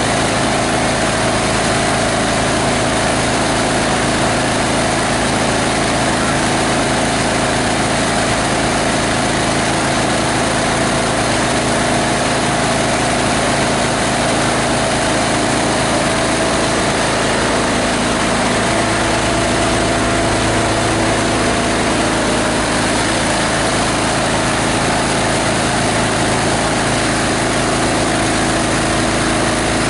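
A plastic grinder's 18 HP diesel engine running steadily, driving the shredder, in a dense mechanical din. Its note shifts slightly about two-thirds of the way through.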